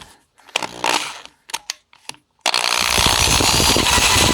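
A few clicks and knocks, then about two and a half seconds in, a drill starts up and runs loud and steady, boring out the stripped bolt holes in a Harley Dyna's front engine mount, whose inner part the owner takes for aluminum.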